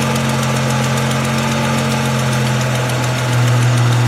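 2002 Ford Mustang's 3.8-litre V6 idling steadily with a light, rapid tick, which the owner takes for an exhaust leak: a failed exhaust manifold gasket or a hole in the manifold itself. The idle gets slightly louder near the end.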